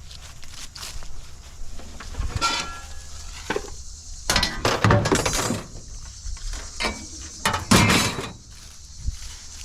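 Pieces of scrap metal clanking and clattering as they are handled and dropped: a clatter about two and a half seconds in, a longer, louder one in the middle, and another sharp crash near the end, with lighter knocks between.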